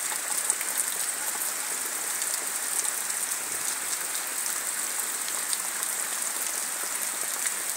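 Heavy rain falling steadily on foliage and wet ground: an even hiss dotted with many small drop ticks.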